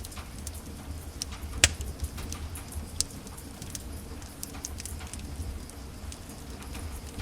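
Wood fire in a fireplace crackling: scattered small snaps, with one loud sharp pop about one and a half seconds in and another near three seconds, over a low steady rumble.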